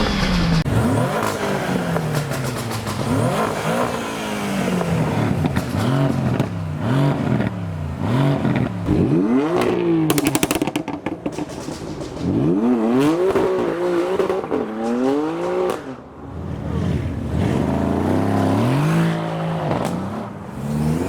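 Car engines revved hard over and over, in the manner of a rev battle, each rev rising in pitch and falling back. A short noisy burst comes about ten seconds in.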